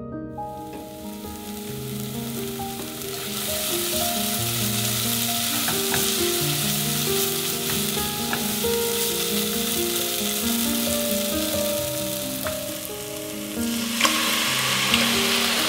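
Homemade green curry paste sizzling as it fries in oil in a pot, scraped and stirred with a silicone spatula: the paste cooking down on medium heat to a thick paste as the oil separates. About two seconds before the end, coconut milk is poured onto the hot paste and the sizzle jumps louder.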